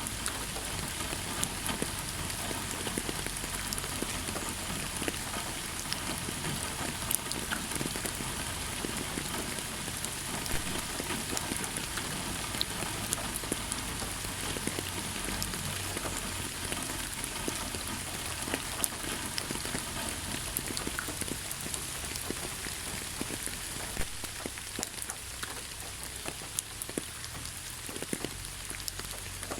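Steady rain falling on a surface, a dense hiss with many separate drops ticking through it.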